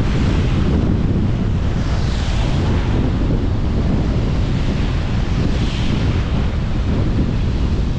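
Steady rushing tyre and wind noise from a car driving, heaviest in the low end. Two brief hissing swells come through, about two seconds and six seconds in.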